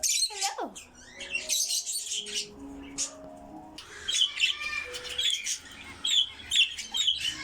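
Small pet parrots chirping and squawking, with a run of quick, high chirps in the second half.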